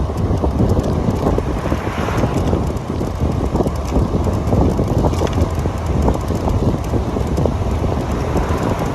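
Wind buffeting the microphone over a steady rumble of road noise while riding an Onyx RCR electric motorbike.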